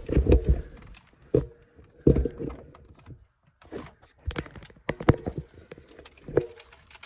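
Irregular knocks and clatter of objects being handled and set down, the loudest at the very start and about two seconds in, several with a brief ring.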